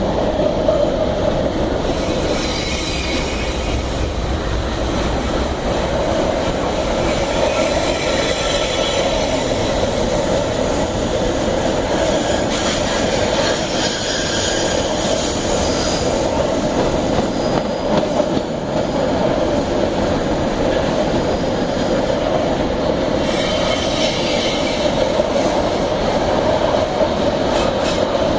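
Iron-ore freight train wagons rolling past on the rails: a steady rumble of steel wheels on track, with a high-pitched wheel squeal that comes and goes several times.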